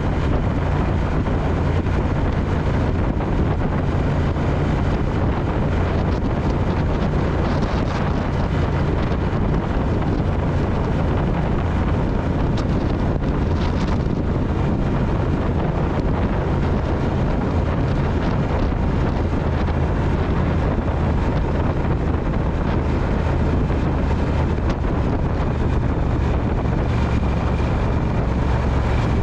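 Triumph Speed Twin's parallel-twin engine running steadily while riding, with wind rushing over the microphone. The engine note drops slightly near the end.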